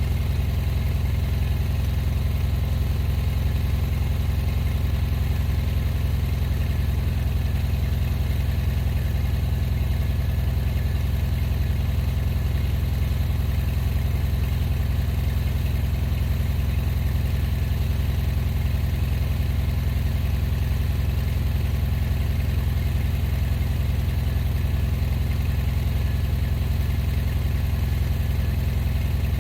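A vehicle engine idling steadily, a constant low rumble that does not change in speed or load.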